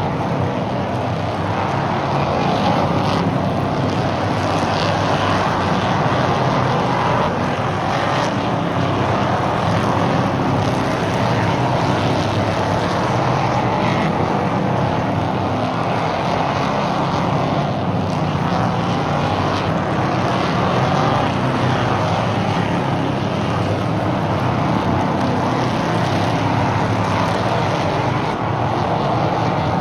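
A field of stock cars racing around an oval track, their engines running hard without a break.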